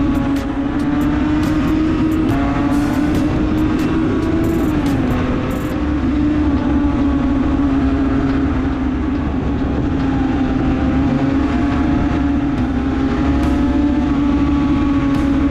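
Yamaha TZR250 3MA rear-exhaust two-stroke parallel-twin engine running loud and steady at high revs. The pitch dips briefly about five seconds in, then holds slightly lower.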